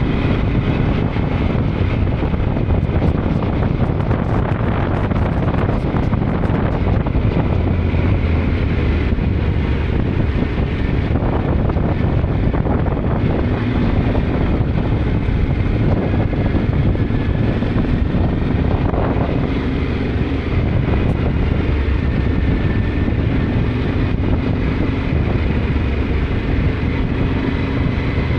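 Yamaha Ténéré 700's parallel-twin engine running as the bike is ridden, with wind buffeting the microphone; the engine note climbs a little near the end.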